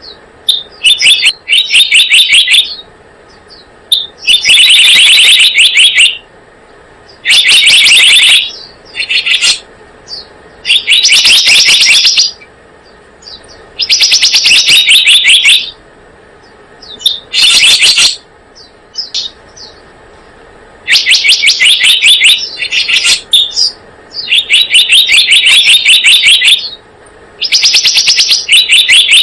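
Bird-lure recording of the selendang biru bird calling: loud, rapid trilled chatters of about one to two seconds each, repeated over and over with short pauses between.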